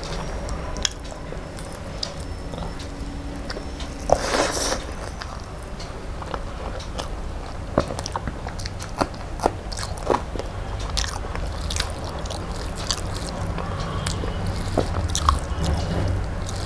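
A person eating close to the microphone: chewing with scattered crunchy bites and wet mouth clicks, and one louder crunch about four seconds in.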